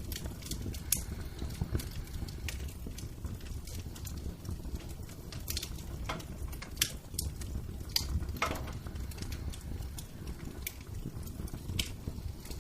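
Fire in a fireplace crackling: a steady low rumble with irregular sharp pops and snaps.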